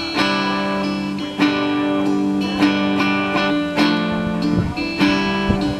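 Guitar intro to a song: chords plucked and strummed at an even pulse, with a fresh attack about every second and ringing notes between.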